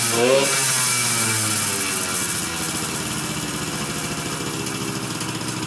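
Yamaha RD 50 small two-stroke single-cylinder engine running just after a cold start. It takes one quick throttle blip, then the revs fall back and settle into a steady idle. It keeps running on its own now that its air leaks at the cylinder head, spark plug and exhaust joint have been sealed.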